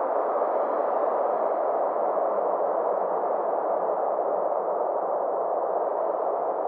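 Steady synthetic space ambience: a band of filtered noise centred in the middle range, giving an even, soft rush with no beats, tones or separate events.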